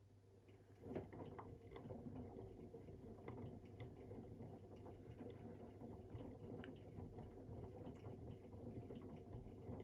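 AEG Protex Plus front-loading washing machine, fitted with a new drum unit, starting its drum motor about a second in and then running steadily with a low hum. Light pattering and clicking of the laundry inside the turning drum.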